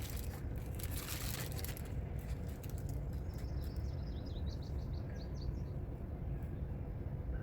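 A songbird singing a quick run of short, high chirps in the middle, over a steady low rumble; a brief hiss comes in the first two seconds.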